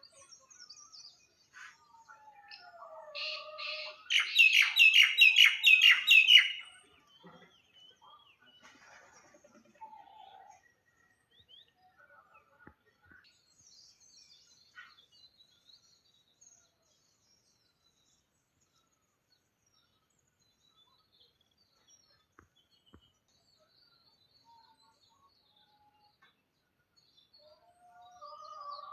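Songbirds chirping: a loud run of quick, repeated falling notes lasting about two seconds, beginning about four seconds in. After it come faint, scattered chirps that fade to a long quiet stretch, and a lower call sounds near the end.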